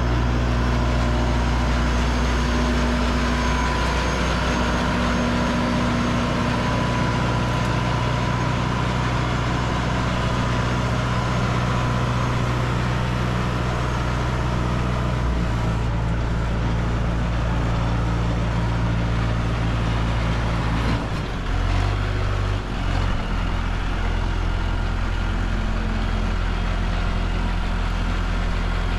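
Tractor engine running steadily under work, its speed shifting about halfway through and again briefly about three quarters of the way in.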